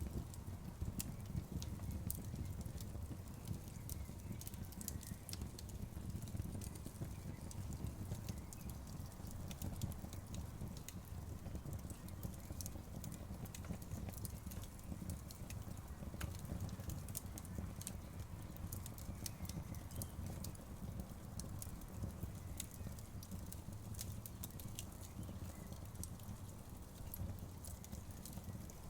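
Outdoor wood bonfire burning with a steady low rumble and scattered sharp crackles and pops.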